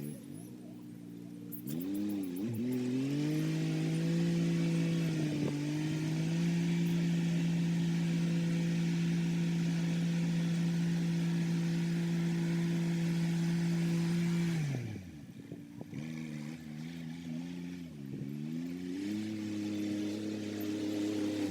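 Kubota SL35 tractor's diesel engine working a rotary tiller: it revs up a few seconds in and holds a steady, higher pitch for about ten seconds, then drops sharply to a lower, wavering speed before starting to rise again near the end.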